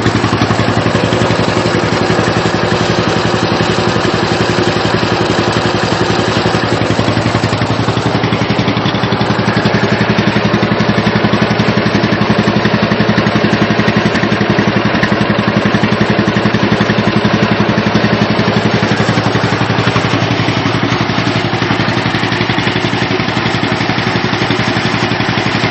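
1958 John Deere 420C crawler's vertical two-cylinder engine running steadily at a fast idle, with a rapid, even firing beat.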